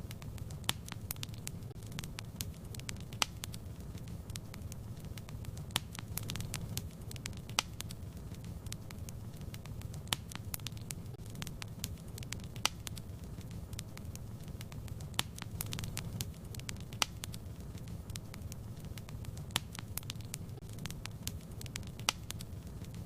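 Fire crackling in a fireplace: a steady low rumble of flames with frequent, irregular sharp pops and snaps.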